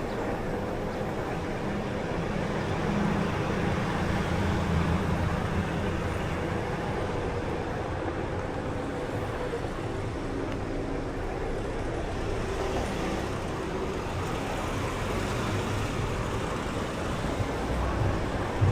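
Road traffic: cars running and passing in a steady wash of engine and tyre noise.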